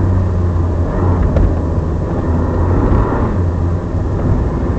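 Alpine A310's rear-mounted 2.7-litre V6 engine running hard at a fairly steady pitch, with road and tyre noise, heard from inside the cabin of the rally car at speed.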